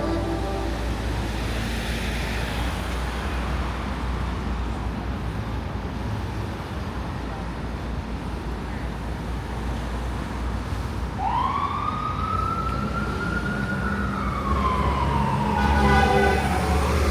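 Steady street traffic noise, then about eleven seconds in an emergency vehicle's siren starts wailing, one tone rising sharply, sliding slowly down and rising again.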